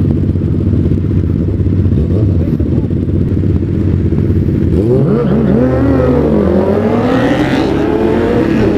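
600cc sport-bike engines running with a steady low rumble, then about five seconds in several bikes launching hard, their revs climbing and dropping again as they shift up through the gears.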